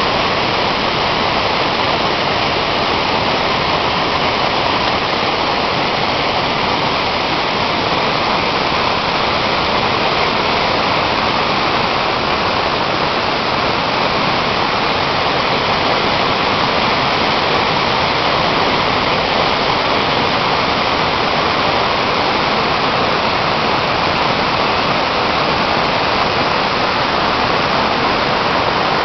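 Large waterfall, a 68 m drop of heavy water volume, giving a steady, dense rush of falling water that does not change.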